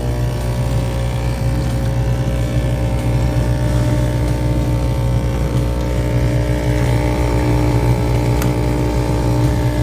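Whirlpool dishwasher buzzing loudly and steadily: the small white lever of the detergent dispenser's actuator solenoid chattering back and forth very fast. The owner puts the fault down to a bad actuator solenoid or a bad control board.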